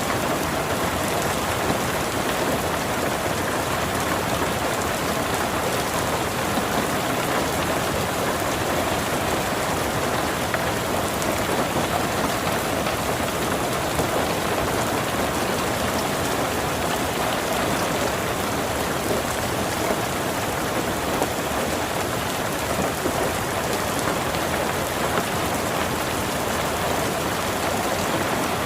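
Hailstorm: a steady hiss of heavy rain with scattered sharp ticks of hailstones striking.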